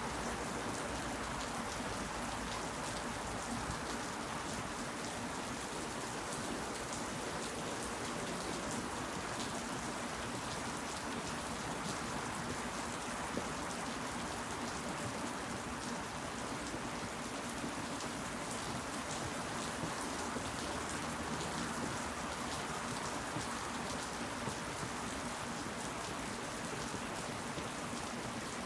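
Steady rain falling, with many individual raindrops ticking through an even hiss.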